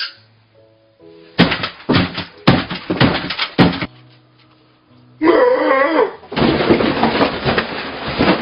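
Loud clattering crashes, several in quick succession, over quiet background music. Then comes a drawn-out wavering cry, followed by a stretch of dense rushing noise.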